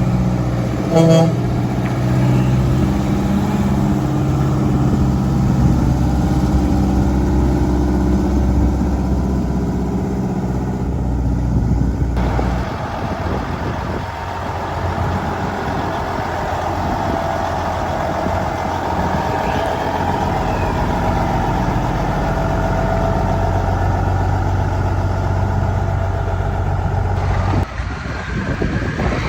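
Vintage truck engines running as the trucks drive by, with a short horn toot about a second in. The engine sound changes abruptly twice.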